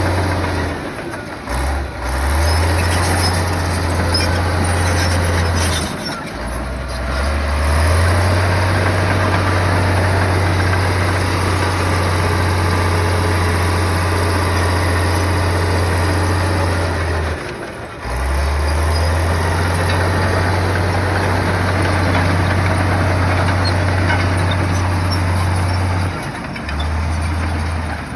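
Heavy diesel earthmoving machinery running and working, with a deep steady engine drone that briefly drops away a few times.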